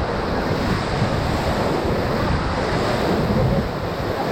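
Ocoee River whitewater rushing in a steady, dense roar of churning water as the raft runs through the rapid.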